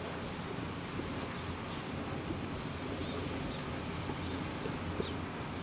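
Steady outdoor ambience: wind on the microphone over a low rumble, with a few faint ticks.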